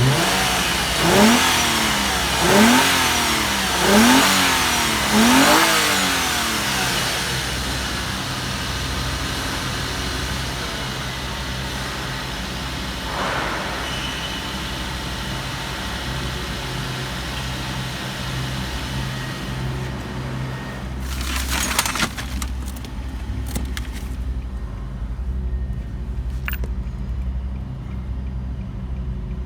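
Nissan VQ23DE 2.3-litre V6 engine blipped four times in quick succession, each rev rising and falling back, then idling steadily. About 21 seconds in there is a brief noisy burst over the idle.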